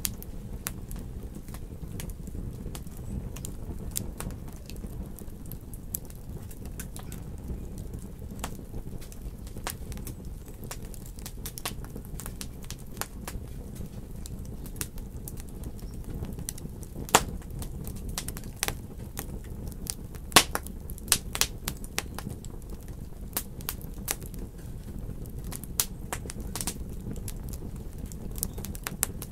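Wood fire burning in a fireplace: a steady low rumble with irregular crackles and pops, the two loudest pops about seventeen and twenty seconds in.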